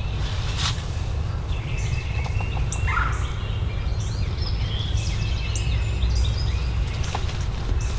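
Wild turkey gobbling about three seconds in, over many short high songbird chirps and a steady low rumble.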